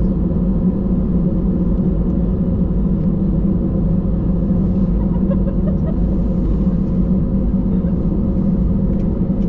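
Airbus A320 engines and airflow heard from inside the passenger cabin as a steady low rumble with a faint constant hum above it.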